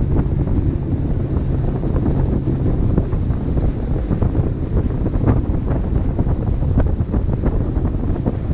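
Heavy wind buffeting the camera microphone, a steady low rumble, with a faint motor hum underneath in the first few seconds.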